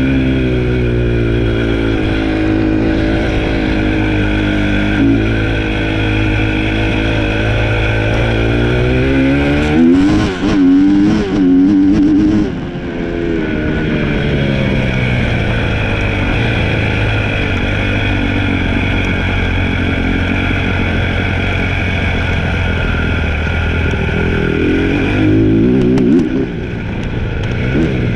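Dirt bike engine running under way, its pitch rising and falling with the throttle, with a sharp burst of revs about ten seconds in and another shorter one near the end.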